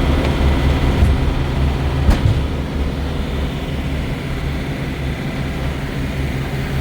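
Steady low drone of a truck running on the road, with two short knocks about one and two seconds in.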